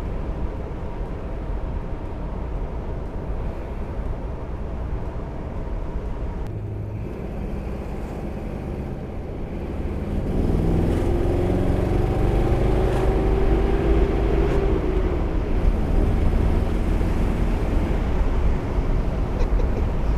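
C3 Corvette's 350 small-block V8 running as the car drives off. About halfway through the engine gets louder and its note rises for a few seconds under acceleration, then eases back.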